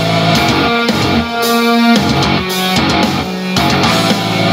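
Guitar music played at full volume through a Sony LF-S50G smart speaker.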